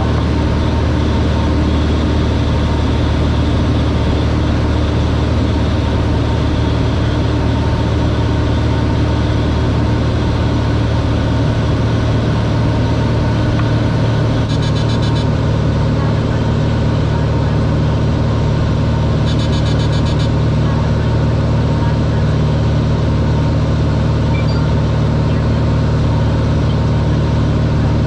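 Cessna 182R's six-cylinder piston engine and propeller running steadily in flight, with a constant drone. The drone shifts in pitch about halfway through as the power setting changes, and two short, high buzzing sounds come shortly after, about five seconds apart.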